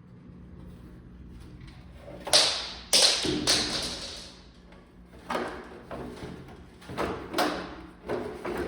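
Irregular knocks and clatters, about six in all. The loudest is a longer clattering stretch about three seconds in. A faint steady low hum runs underneath.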